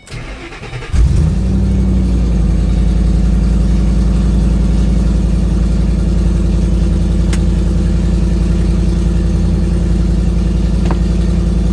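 2008 Ford Mustang GT's 4.6-litre three-valve V8 cranks and starts about a second in, then idles steadily. It is running with a misfire that the dealer put down to five bad coil packs.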